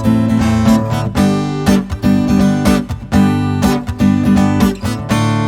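Acoustic guitar strummed in a steady rhythm, chords without singing.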